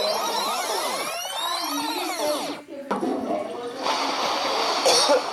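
Meme sound effects played from a soundboard app: many overlapping tones swooping up and down, which stop about two and a half seconds in, followed by a different dense, noisy effect.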